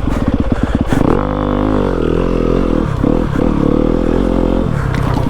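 Yamaha WR250F's single-cylinder four-stroke engine revving up and down under the rider's throttle. The engine climbs in pitch a little after a second in and dips twice later on.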